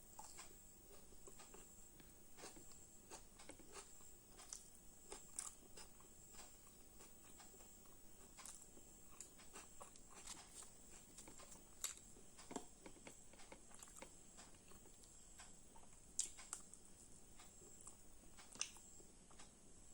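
Faint eating sounds: a person chewing luchi and chicken kosha, with scattered soft mouth clicks at irregular intervals over a faint steady high-pitched hiss.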